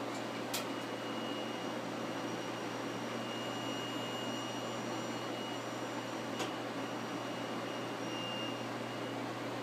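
Harman pellet stove running: a steady blower noise with a thin, high-pitched whine that wavers in strength throughout, and two sharp clicks, one about half a second in and one about six seconds in. The cause of the noise is unknown to the owner.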